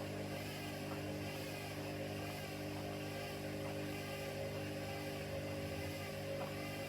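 Front-loading washing machines running: a steady motor hum with several steady pitches held level and unchanging.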